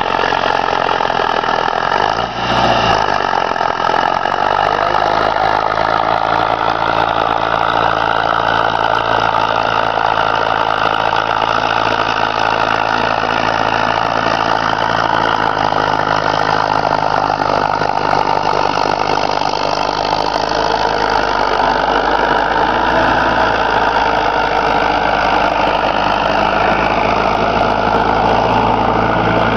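Preet tractor's diesel engine running steadily at a constant speed, with a brief dip about two and a half seconds in.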